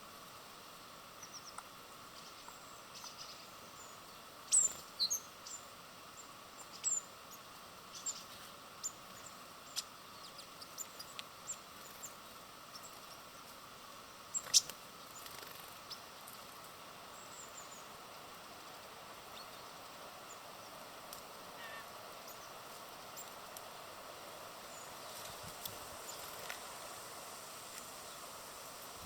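Small birds at a feeder giving short, high chirps and calls, scattered through the clip, the loudest a few seconds in and again about halfway. A steady faint hiss of outdoor background noise runs underneath.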